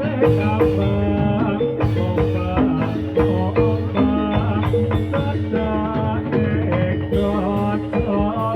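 Javanese gamelan music for a jathilan dance: a quick melody of struck, ringing metallophone notes over steady drum beats, played loud through a PA sound system.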